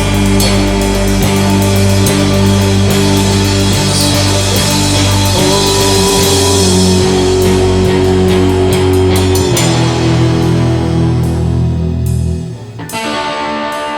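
Instrumental rock passage with guitars and a drum kit, playing sustained chords over a steady beat. About twelve and a half seconds in, the full band drops out, leaving a lighter plucked guitar part.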